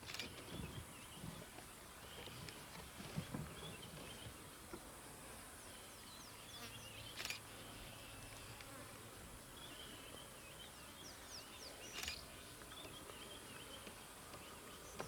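Faint outdoor ambience with insects buzzing and chirping, and a few short soft knocks.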